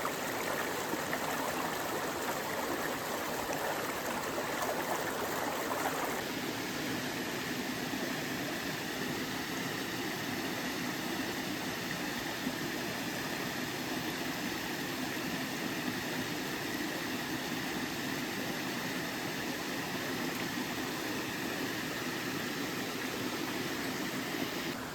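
Steady rush of a flowing stream. Its sound shifts abruptly about six seconds in, becoming less full in the middle range.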